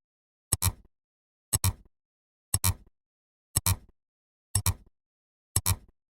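A sharp double click repeated about once a second, six times, with dead silence between the pairs.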